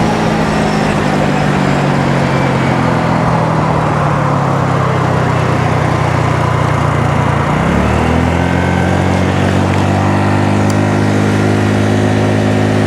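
Honda Navi's small single-cylinder four-stroke engine running steadily under way, over a rushing haze of wind noise. About two-thirds of the way through, the engine note dips sharply, then climbs back up and holds as the throttle is opened again.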